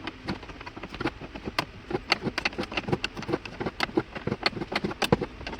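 Irregular clicks and light knocks, several a second, from hand tools and fittings being handled while an air conditioner indoor unit is taken down.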